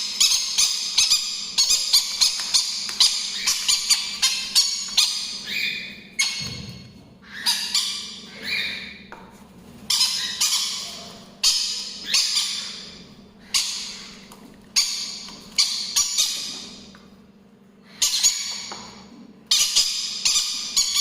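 Young hand-fed green-cheeked conures squawking with harsh, high calls while waiting to be fed: food-begging. The calls come several a second for the first six seconds, then thin out to about one a second.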